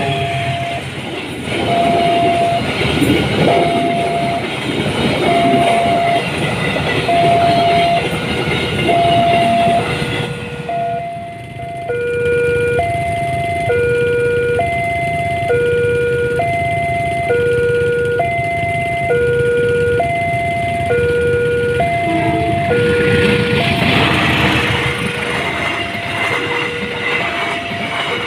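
Railway level-crossing warning alarm sounding two alternating electronic tones, one high and one low, switching about once a second, while a train rumbles through the crossing with wheel noise, louder in the first ten seconds and again near the end.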